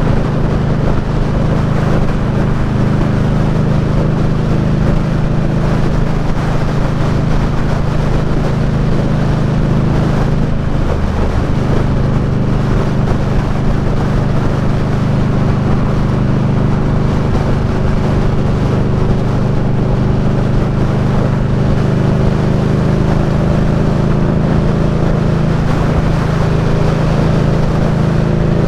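Indian Scout Bobber V-twin motorcycle engine running steadily under way, with a short change in engine note about ten seconds in.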